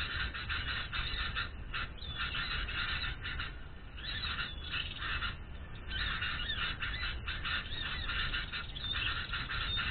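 Dense, continuous bird chirping and chattering, many quick calls overlapping, easing off briefly a few seconds in before picking up again.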